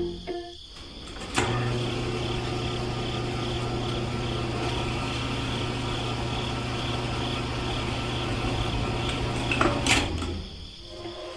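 A small electric motor switched on with a click, running with a steady hum, then clicked off near the end.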